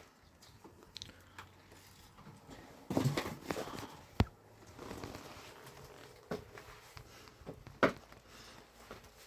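Irregular crunching with a few sharp clicks, the loudest about four seconds in and near the end.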